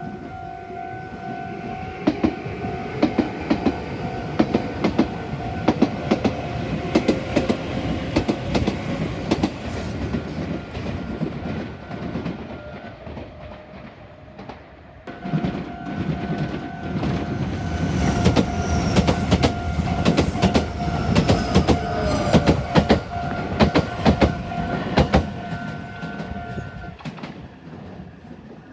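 Meitetsu electric trains passing at a small level crossing: running noise with many sharp wheel clacks over the rail joints, and the crossing's warning bell ringing as a steady tone above them. Everything drops away about 13 seconds in and starts again abruptly about 15 seconds in, louder until near the end.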